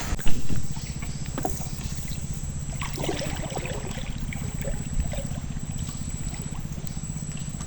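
A small boat engine running steadily at a low, even pitch, with a sharp knock about a third of a second in and a few light clatters over it.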